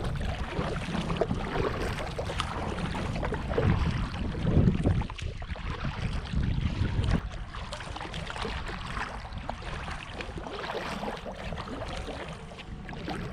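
Kayak being paddled: paddle strokes dipping and splashing in the water, with small knocks and clicks. Low wind rumble on the microphone comes and goes in the first half, then eases off.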